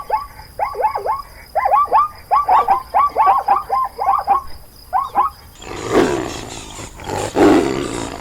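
Farm animals calling in a rapid, irregular run of short calls, each dropping in pitch, for about five seconds. Near the end it changes to a noisier, rougher animal sound.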